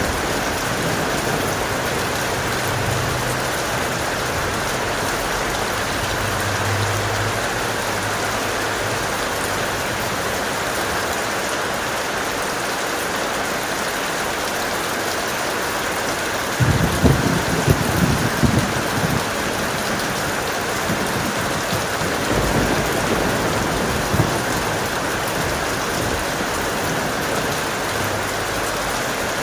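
Heavy rain falling steadily, with a burst of low thunder rumble about halfway through and fainter rumbles after it.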